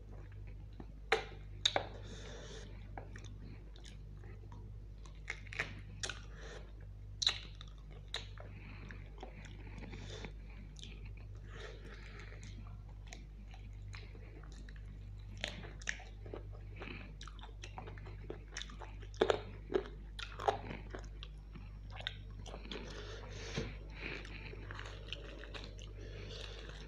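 Close-miked chewing of mutton curry eaten by hand: wet smacks and sharp mouth clicks at irregular intervals, over a steady low hum.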